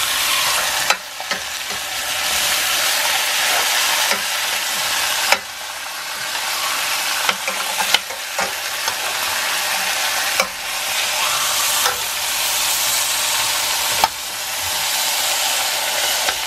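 Red snapper and sliced peppers and onions sizzling in hot oil in a stainless steel skillet as the fish skin crisps, with metal tongs clicking against the pan about half a dozen times.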